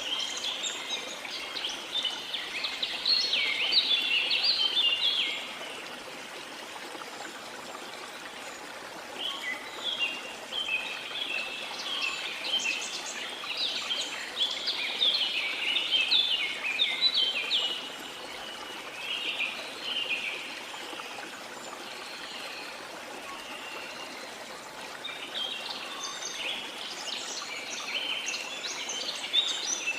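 A steady rush of flowing river water with birds chirping over it. The birdsong comes in busy spells, at the start, through the middle and again near the end, with quieter stretches of water alone between them.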